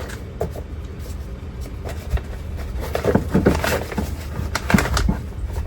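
Clicks, knocks and scraping as parts are handled and pulled out of a truck door with its trim panel off, busiest in the middle of the stretch, over a low steady hum.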